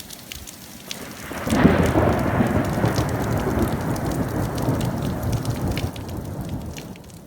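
Steady rain falling, with a long roll of thunder that breaks about a second and a half in and rumbles away over several seconds.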